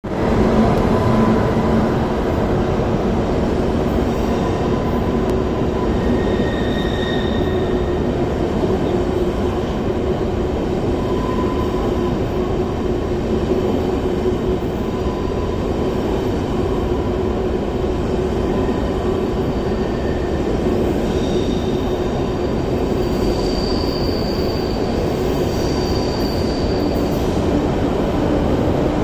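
ICE 1 (class 401) high-speed train running slowly through a station on the platform track, a steady rumble of wheels and coaches on the rails. A few faint high wheel squeals come and go about a quarter of the way in and again in the last third.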